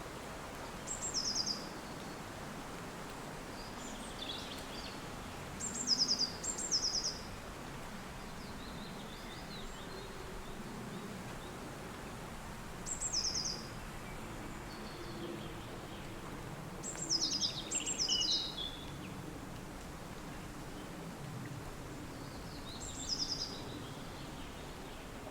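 Steady wind blowing, with a small songbird repeating a short, high, quickly descending series of notes every few seconds.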